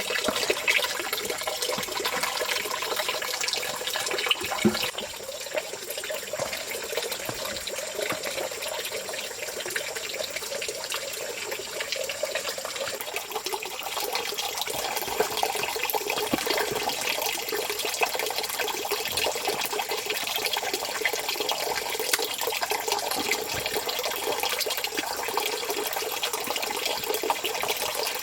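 Steady running water, a continuous splashing flow with no break.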